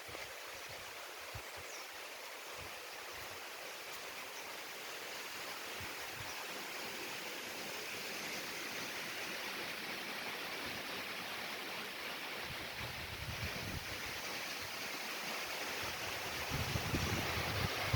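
Wind blowing, a steady rushing hiss that swells slightly, with gusts buffeting the microphone in the last few seconds.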